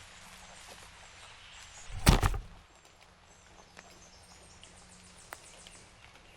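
A small camera tripod toppling over with the camera on it: one loud thud about two seconds in, over a faint outdoor background.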